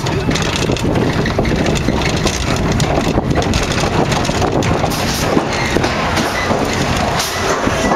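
Vekoma mine train coaster rolling along its steel track, heard from on board: a steady rumble with a dense clatter of wheels and cars, and wind on the microphone.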